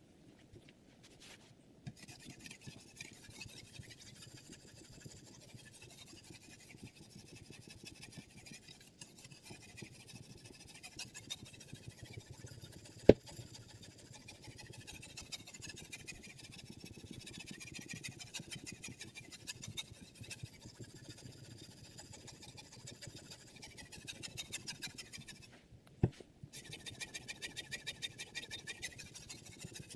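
Sharpening stone on a KosiM guided sharpening system stroked rapidly back and forth along the steel edge of a Xinzuo chef knife, a steady scraping rasp. Two sharp clicks stand out, one near the middle and one near the end just after a short pause in the strokes.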